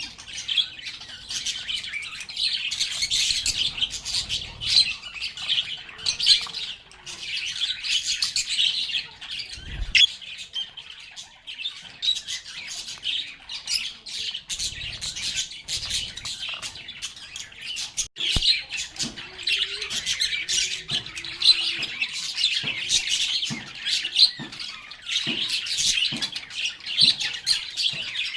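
Lovebirds chirping and squawking in a dense, unbroken high-pitched chatter, with a couple of short knocks, one about ten seconds in and another around eighteen seconds.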